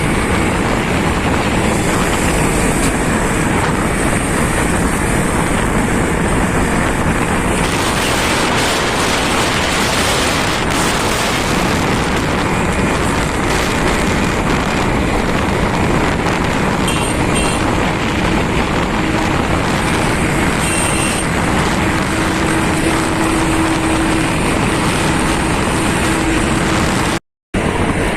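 Steady, loud wind and road noise on the microphone of a moving motorcycle, cut by a brief gap of silence near the end.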